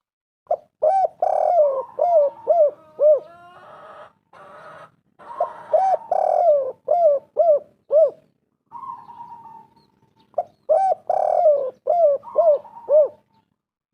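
Spotted dove (tekukur) cooing: three phrases, each a run of five or six short, bowed coos.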